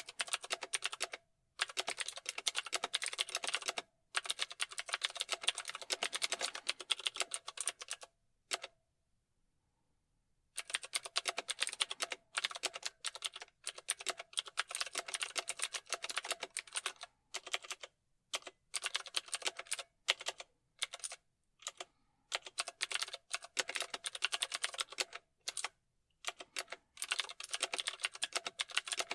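Typing on a computer keyboard: fast runs of key clicks lasting a few seconds each, broken by short pauses, with one longer pause of about two seconds roughly a third of the way in.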